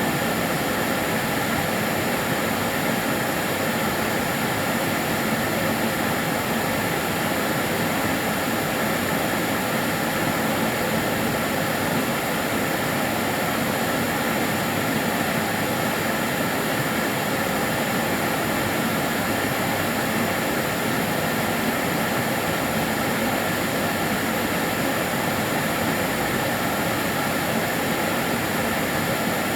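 Kärcher DS 6 Premium water-filter vacuum cleaner running steadily: an even rush of air with a faint high whine, unchanging throughout.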